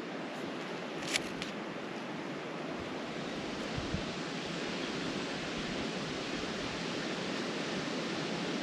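Steady wind blowing through the trees, a little stronger toward the end, with one small click about a second in.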